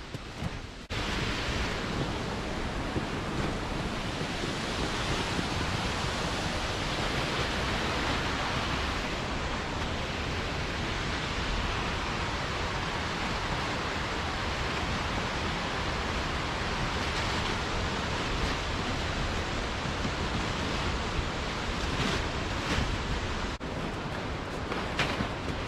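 Water pouring over a small stream dam, a steady rushing, with short breaks about a second in and near the end.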